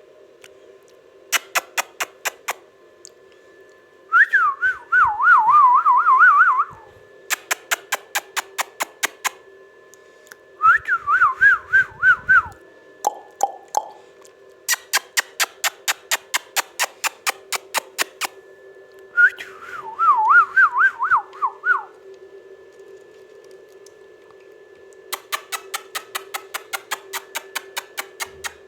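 A parrot whistling a warbling, quavering tune in three phrases of two to three seconds each, between runs of rapid, evenly spaced clicks. A steady hum runs underneath.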